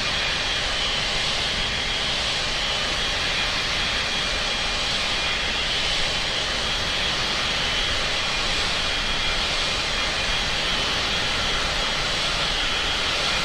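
Jet aircraft engines running steadily: an even rush of noise with a thin, steady high whine over it.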